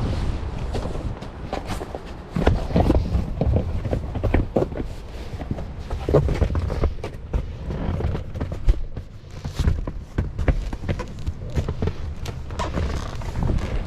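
Irregular knocks, clicks and rustling over a steady low rumble of strong wind.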